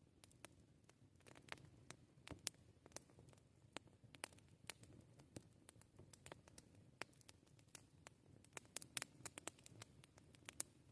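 Wood campfire crackling: irregular sharp pops and snaps of varying strength over a faint low steady rumble, the loudest pop about two and a half seconds in and a quick cluster of snaps near the end.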